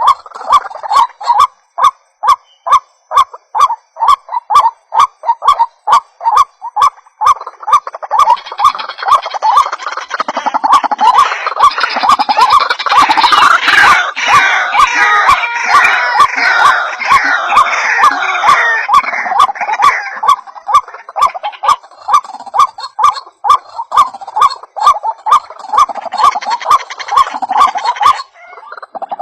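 White-breasted waterhen (ruak-ruak) calls played as a lure: a loud, quickly repeated croaking note, about three a second. About a third of the way in it swells into a dense chorus of overlapping calls, then settles back into the steady repeated note, with a brief break just before the end.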